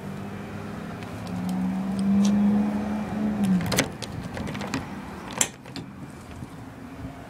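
A motor hum that swells, then drops in pitch and cuts off just under four seconds in, followed by a couple of sharp clicks.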